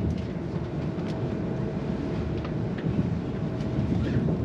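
Steady low rumble of a Shinkansen bullet train car on the move, heard from inside, with a faint steady hum and a few light clicks.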